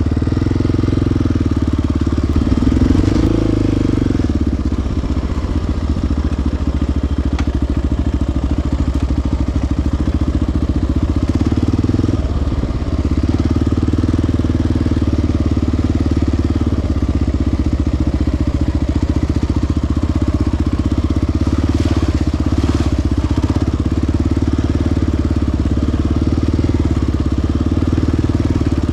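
Single-cylinder ATV engine running steadily at low revs, swelling briefly about three seconds in and easing off for a moment around twelve seconds.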